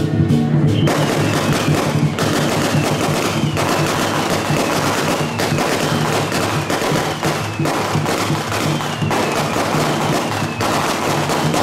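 A long string of firecrackers going off in a dense, continuous crackle, starting about a second in, with music still playing underneath.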